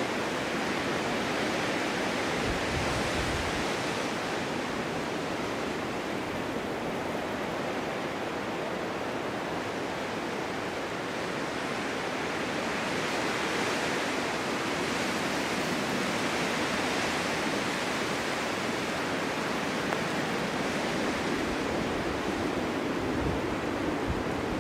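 Steady winter wind blowing in a snowstorm, a dense rushing hiss that swells and eases slowly every few seconds.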